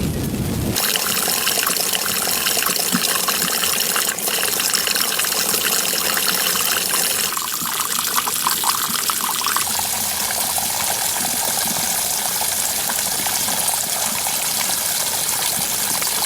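Running water: a steady splashing, trickling flow, its sound shifting at cuts about a second in and about seven seconds in.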